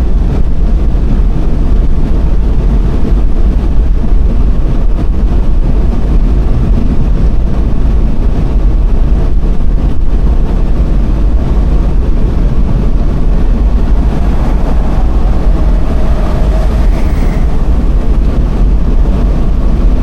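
High wind buffeting the microphone: a loud, steady low rumble.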